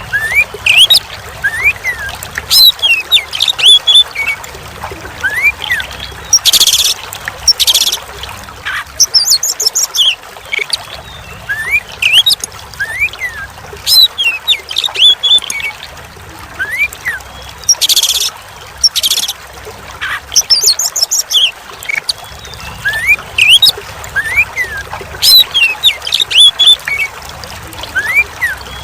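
Oriental magpie-robin (kacer) singing a varied song of quick whistled glides and trills, broken by a few short harsh rasping notes. Running or trickling water plays steadily underneath. The same sequence repeats about every eleven seconds, as in a looped training recording.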